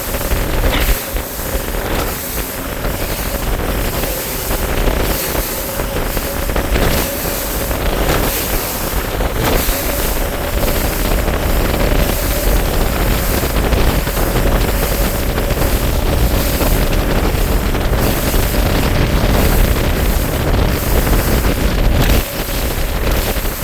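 Bass boat's outboard motor running steadily underway, with a steady whine, and heavy wind buffeting the microphone.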